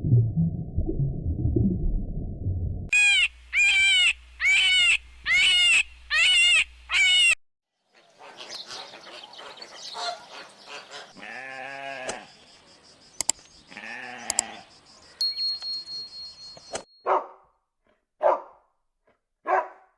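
A run of different animal calls, one after another: a low rumble for the first three seconds, then six short high calls in an even row, then a mix of calls and low grunts, and a few short separate calls near the end.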